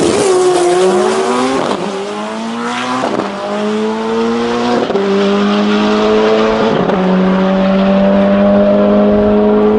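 Turbocharged Subaru EJ25 flat-four in a Mk1 Ford Fiesta drag car accelerating hard down the strip. Its pitch climbs and drops back at each of four upshifts, and each gear pulls longer, over a steady drone.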